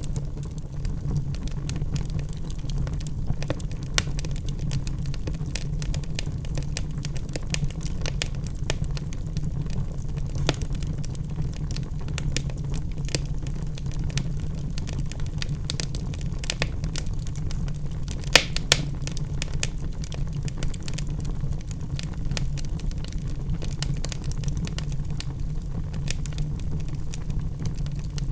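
Wood fire burning in a fireplace: a steady low rumble of the flames with irregular crackles, and a couple of louder pops about two-thirds of the way through.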